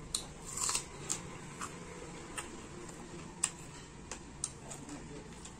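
Eating at close range: about a dozen irregularly spaced light clicks and short crunches, from chewing and from utensils on a plate, over a faint steady hum.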